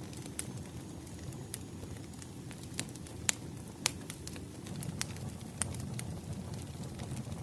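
Wood fire crackling: a steady low rumble of burning logs with scattered sharp pops, the loudest a little after three and four seconds in.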